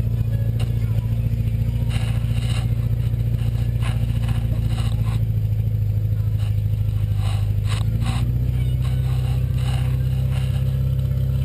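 Tough truck's engine running hard at a steady speed, its pitch stepping up slightly about eight seconds in, with scattered clattering knocks.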